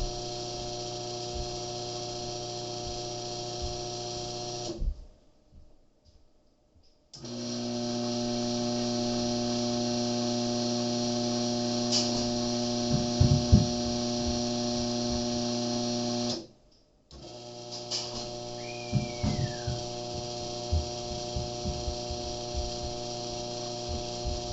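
Steady electrical hum of several fixed tones from the device under a remote range test. It cuts off abruptly twice, for about two seconds about five seconds in and briefly about seventeen seconds in. Between the cut-offs it comes back louder with an added lower tone. Light scattered knocks run throughout.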